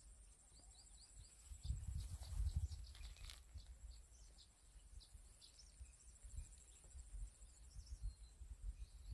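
Birds chirping in short, repeated calls, faint, over a steady high-pitched hum. Low rumbles on the microphone rise between about one and a half and three seconds in.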